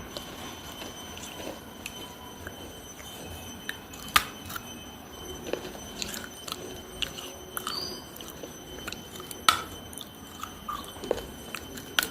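Close-up biting and chewing of pieces of baked clay diya (earthen lamp). Sharp crunchy snaps come about four and nine and a half seconds in, with softer crackles of chewing scattered between them.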